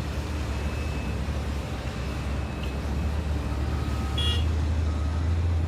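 Heavy diesel mining machinery running with a steady low engine drone that grows a little louder in the second half, with short high beeps now and then and a brief sharp high clink about four seconds in.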